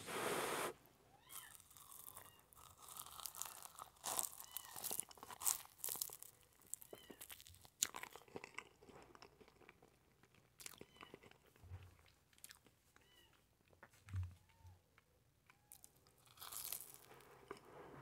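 Close-miked chewing of a charred toasted marshmallow: soft crunching of the burnt crust and many small mouth clicks, with a few short squeaky mouth sounds. A brief breathy rush is heard right at the start and again near the end.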